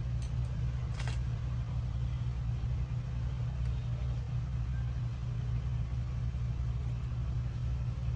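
A steady low hum, with one faint click about a second in.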